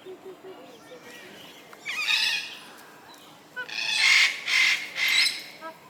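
Magpie geese calling: loud, harsh honks, a short burst about two seconds in, then a longer run of calls from about three and a half seconds in.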